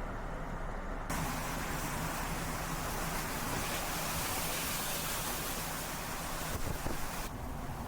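A steady rushing noise that comes in abruptly about a second in and falls back to a duller low rumble near the end.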